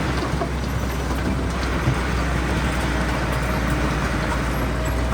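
Heavy diesel earthmoving machinery running steadily, a constant low engine hum with mechanical noise over it.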